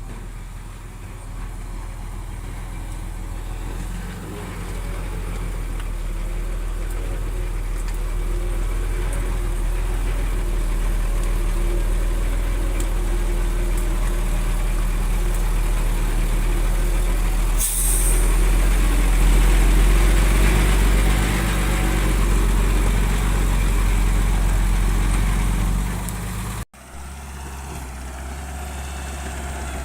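Heavy diesel engine of construction machinery working under load, a low steady rumble that grows louder over the first several seconds. A short sharp hiss comes about two-thirds of the way in. Near the end the sound breaks off abruptly and comes back quieter.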